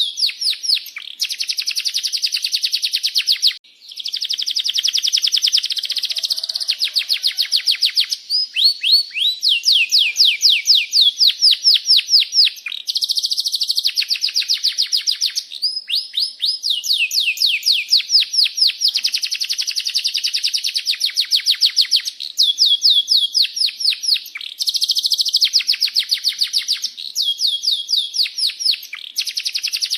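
Domestic canary singing continuously in long rolling trills of rapid repeated notes, one phrase running into the next, with a short break about four seconds in.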